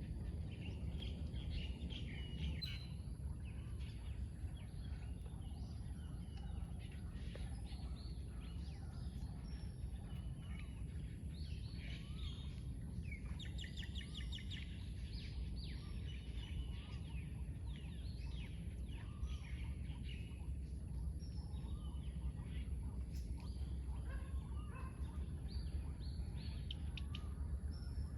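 Several birds chirping and calling, with a quick trill about halfway through, over a steady low rumble.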